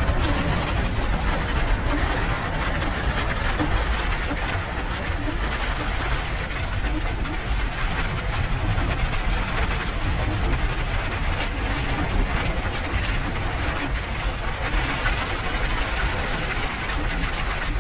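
Steady rain: an even hiss with a strong low rumble beneath it.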